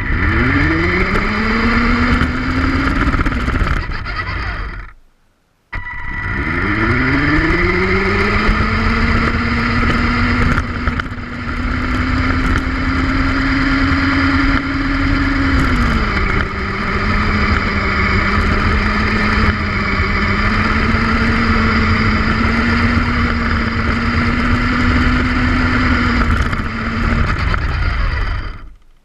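Lego Technic electric motors and gear trains running, a whirring whine over a rattly clatter. The whine rises in pitch as the motors spin up, cuts out briefly about five seconds in, then spins up again and holds steady. It drops a little in pitch about sixteen seconds in and stops near the end.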